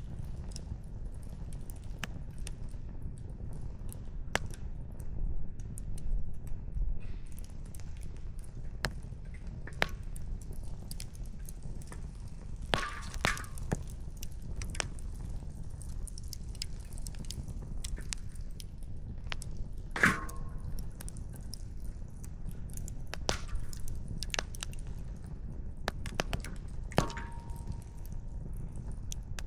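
Wood campfire crackling: burning firewood gives off frequent small sharp pops and three louder snaps spread through, over a steady low rumble.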